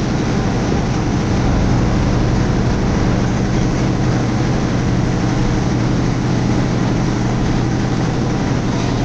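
A motorboat's engine running steadily with a low, even drone.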